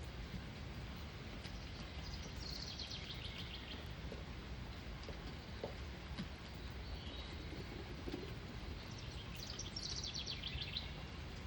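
A songbird sings twice, each phrase a quick run of notes falling in pitch and lasting about a second and a half, with a faint short call between them. A steady low rumble of outdoor background noise runs underneath.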